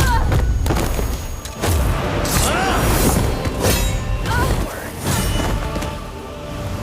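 Animated fight sound effects over a music score: a string of sharp hits and clashes.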